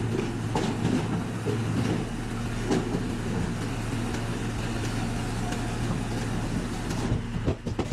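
Hydraulic log splitter's power unit running steadily, a low hum with a few light knocks, before the splitting stroke.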